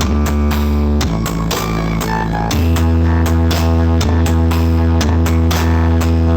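Loud electronic dance music with heavy sustained bass notes that shift about a second in and again midway, played through a carnival sound-system rig of 24 Blizzard subwoofers.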